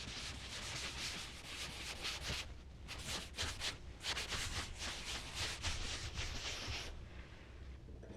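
Charcoal drawing strokes on paper, a dry scratchy rubbing in quick repeated strokes that stops about seven seconds in.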